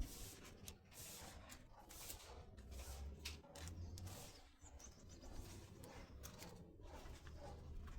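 Mitsubishi 4M40 2.8-litre four-cylinder diesel engine running faintly with knocking sounds over a low hum, which the owner takes for piston slap.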